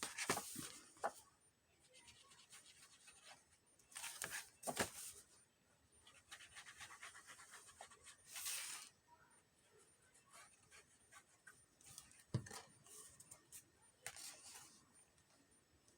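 Paper rustling and being handled, with light taps and clicks and a short knock near the middle, as a paper pocket is glued down and pressed onto a journal page.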